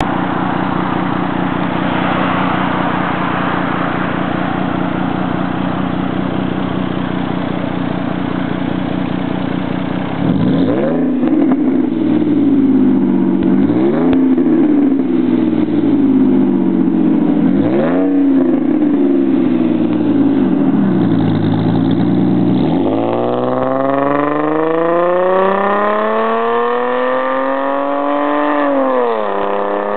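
Dodge Charger V6 on a true dual exhaust fitted only with dual resonators, idling steadily for about ten seconds. It is then blipped three times, and finally revved in one long, slow climb that holds high before falling back near the end.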